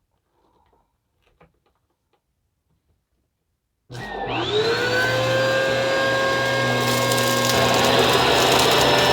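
A few faint clicks, then about four seconds in a Bissell vacuum cleaner switches on, its motor whine rising as it spins up and then running steadily.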